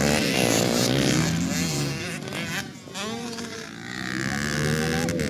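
Several motocross bikes racing, their engines revving up and down with the throttle and gear changes. The sound fades about two and a half seconds in and then builds again.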